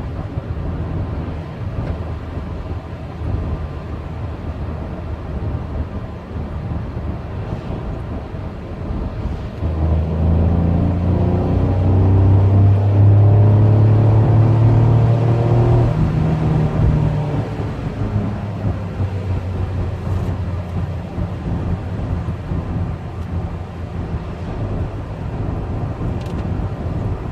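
A Peugeot 108's 1.2 VTi three-cylinder petrol engine running at speed over a steady road rumble. About a third of the way in, the engine note climbs and grows louder under acceleration, then settles back to a steady drone.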